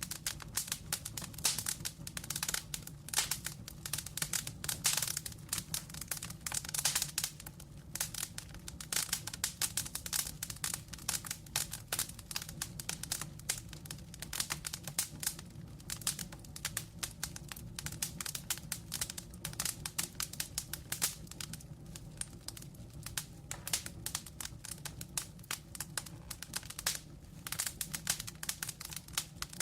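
Wood fire crackling: logs burning in a fireplace, with dense irregular snaps and pops over a steady low rumble of flame.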